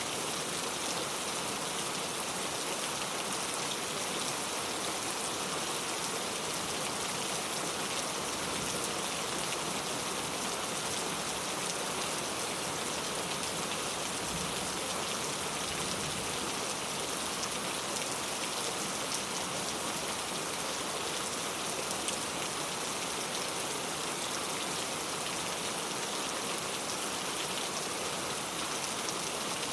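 Steady rain falling, a dense even hiss of many drops with faint scattered patter of individual drops striking surfaces.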